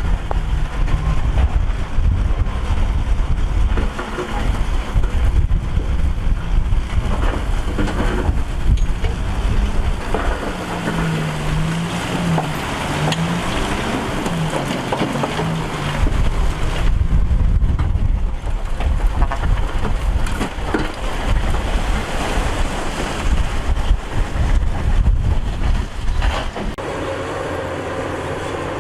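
Heavy diesel earthmoving machinery running, with a low rumble and the engine pitch rising and falling several times around the middle. Wind buffets the microphone throughout, and near the end the engine settles to a steadier note.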